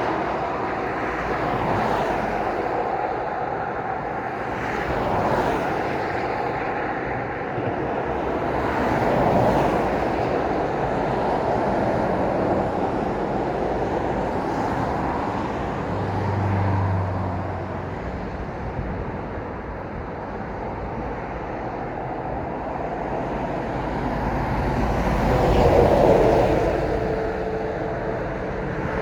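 Road traffic passing at night: continuous tyre and engine noise from cars and lorries that swells as each vehicle goes by and fades again, the loudest pass near the end.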